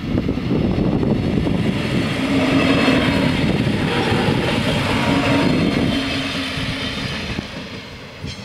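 A Siemens Desiro diesel railcar passing over a level crossing: engine hum and wheel-on-rail noise build up, stay loud as it goes by, and fade away over the last couple of seconds.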